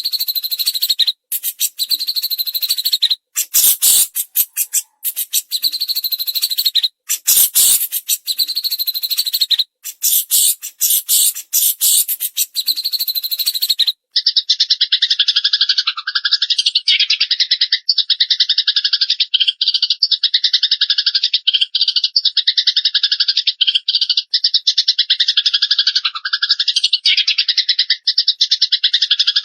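Songbird tutor recording of a Eurasian tree sparrow and a cililin in full song. It starts as rapid, harsh chattering chopped into short bursts with brief breaks. From about halfway it becomes one continuous, very fast trill.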